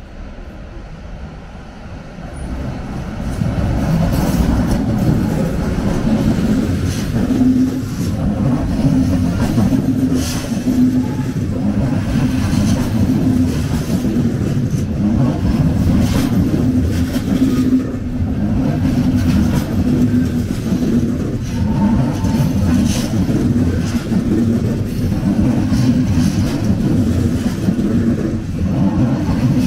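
A train running past on the station tracks: a loud, steady rumble of wheels on rail that builds up over the first few seconds and then holds, with scattered sharp clacks.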